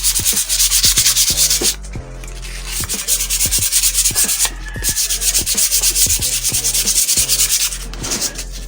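Sandpaper rubbed by hand over a stripped bicycle frame in rapid back-and-forth strokes, with a few brief pauses: the final sanding to take off the last of the old paint before priming.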